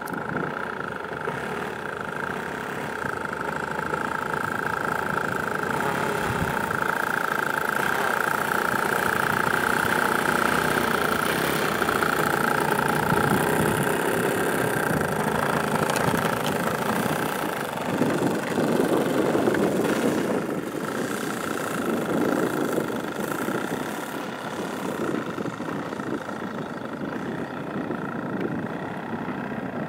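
An engine, the one called the 'Hien' engine, running steadily and smoothly in good running order. It grows somewhat louder through the middle and eases off toward the end.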